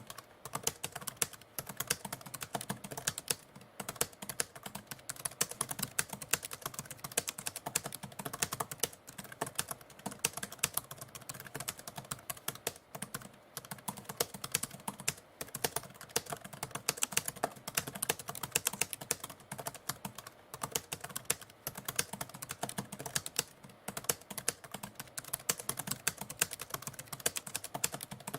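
Typewriter keys being typed on continuously: a fast, irregular run of sharp key strikes with a few brief pauses.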